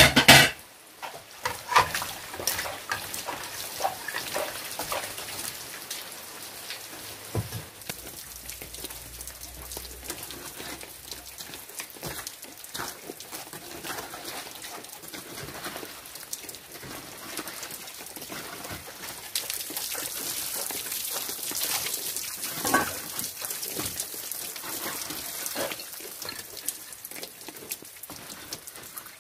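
Steady rain falling, with a loud clatter right at the start and scattered clinks and knocks of metal pots, lids and dishes being handled and scrubbed during hand dishwashing.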